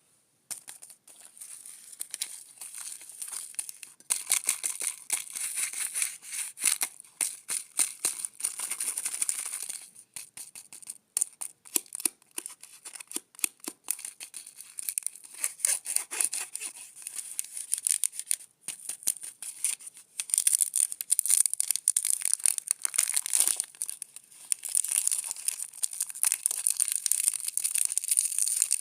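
Close-miked plastic candy wrapper crinkling, rustling and tearing as a bear pop lollipop is unwrapped by hand, in dense crackles with louder bursts of handling now and then.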